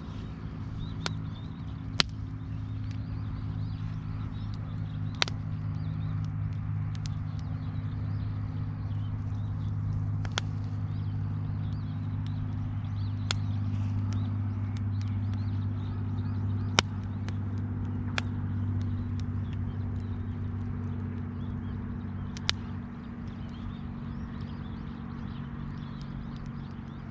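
Steady low mechanical hum, fading slightly near the end, with sharp single pops or clicks every few seconds.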